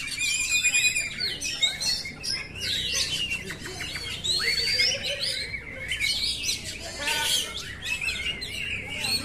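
Oriental magpie-robin (kacer) singing a varied song of quick whistled glides, rapid trills and chattering notes.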